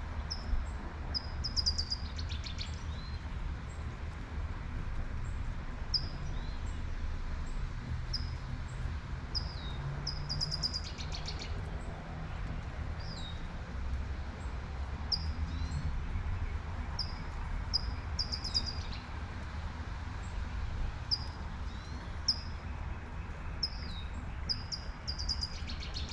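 Birds singing: short high chirps repeated throughout, with a fuller song phrase ending in a quick trill about every eight seconds. Underneath is the steady hiss of light rain and a low rumble of distant traffic.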